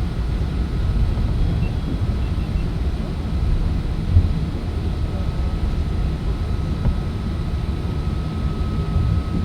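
Steady low rumble of an Airbus A380's passenger cabin, with a faint steady hum above it and one brief thump about four seconds in.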